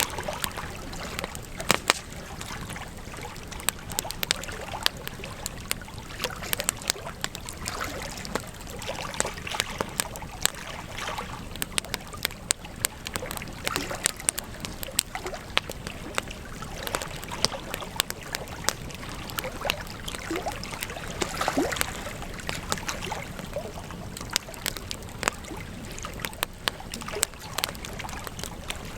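Wood campfire crackling: a steady low hiss of burning wood with many sharp, irregular pops and snaps, a denser, louder patch of crackling a little past the middle.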